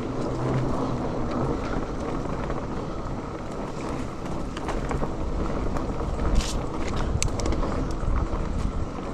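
Mountain bike rolling along a dirt trail: steady wind rush on the camera microphone and tyre noise, with scattered clicks and rattles from the bike, the sharpest about six seconds in.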